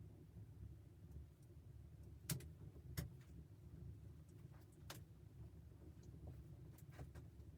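Wood stove fire ticking and popping quietly, with sharp pops at about two, three and five seconds in and fainter ticks near the end, over a low steady rumble.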